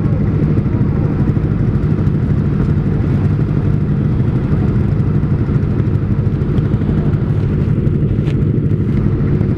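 Kawasaki ZX-25R's 250 cc inline-four engine, fitted with an R9 Zeta aftermarket exhaust, idling steadily while stopped.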